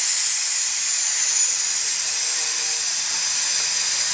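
Avonside steam locomotive No. 1764 letting off steam: a loud, steady hiss that holds without a break.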